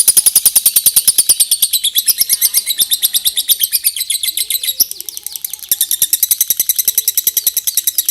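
Lovebird singing 'ngekek': a long unbroken run of rapid, shrill, high chattering notes, about ten a second, dipping slightly in level around the middle.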